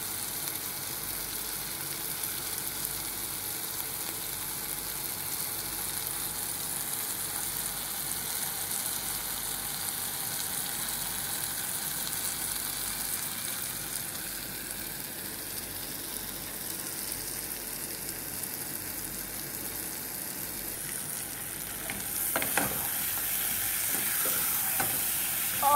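Prawns with onions and spices sizzling steadily in a pot. About three seconds from the end, a wooden spoon starts stirring and scraping through them, a little louder.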